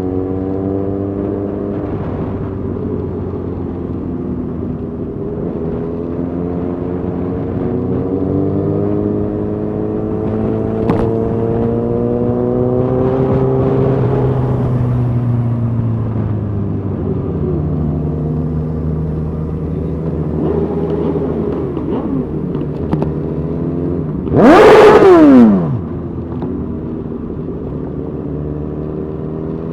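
Motorcycle engines running at low, parade-pace speed, their pitch rising and falling gently. About 25 seconds in, an engine is revved hard in a brief, very loud blast whose pitch drops away quickly.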